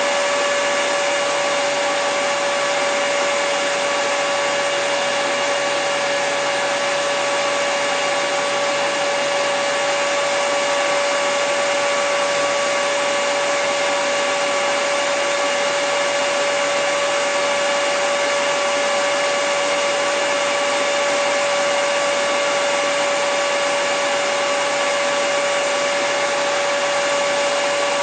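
Hair dryer running steadily: an even rush of blown air with a constant motor whine, unchanging throughout.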